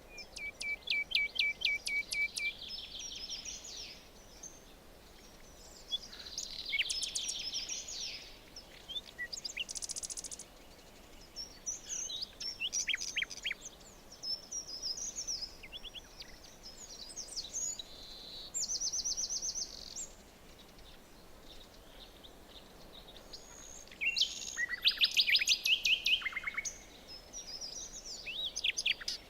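Several songbirds singing in a forest: bursts of rapid trills and quick down-slurred whistled notes, with the loudest phrases about a second in, around seven seconds in and near the end, over a faint steady background hiss.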